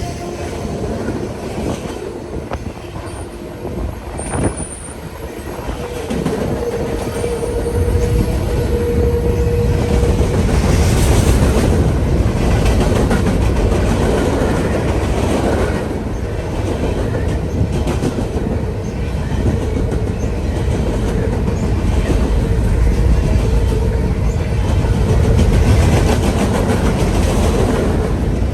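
Train rolling through, a steady heavy rumble with the clickety-clack of wheels on the rails, getting louder about six seconds in and staying loud.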